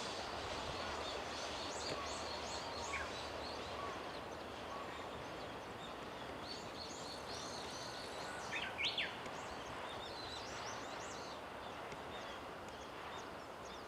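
Steady background hiss with small birds chirping irregularly, and a louder bird call about nine seconds in.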